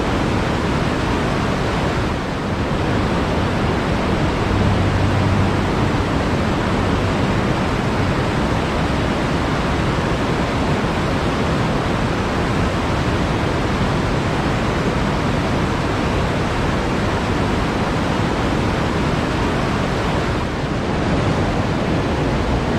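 Water flowing steadily as a continuous, even rush, like a stream or small waterfall.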